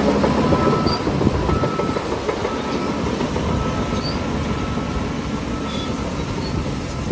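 Shantui crawler bulldozer working: a diesel engine running steadily under load, with the clatter of steel tracks and a thin high squeal that comes and goes.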